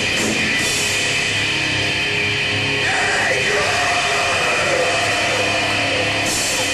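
Live heavy metal band playing loud: distorted guitars, bass and drums in a dense, steady wall of sound.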